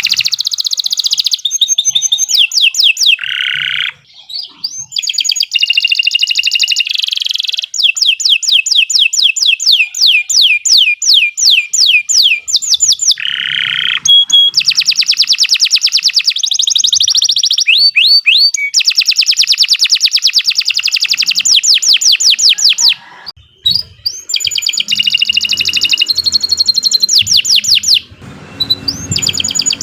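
Domestic canary singing a long, continuous song of rapid rolling trills, each a fast run of repeated sweeping notes, with short breaks about four, twenty-three and twenty-eight seconds in.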